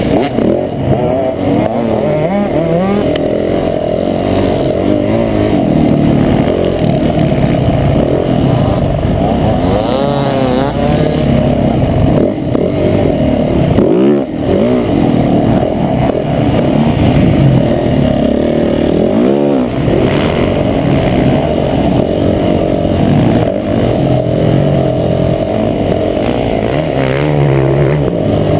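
Motocross bike engine running hard, its pitch repeatedly rising and falling as the throttle opens and closes, with a brief drop in level about halfway through.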